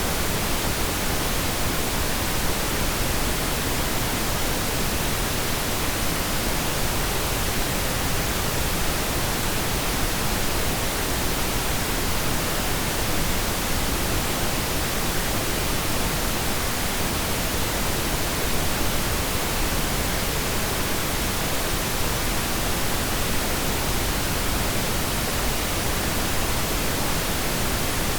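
Steady pink noise: an even, unchanging hiss with no breaks or separate sounds.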